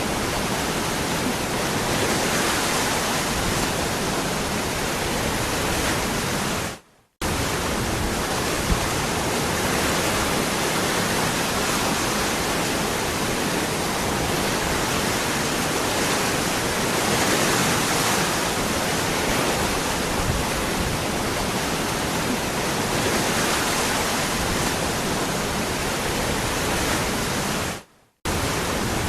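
Waterfall, a steady even rush of falling water. It drops out to silence for a split second twice, about seven seconds in and again near the end.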